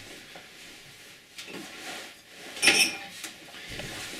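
A drinking glass being handled and set down on a hard surface, with one sharp clink a little past halfway amid lighter handling noise.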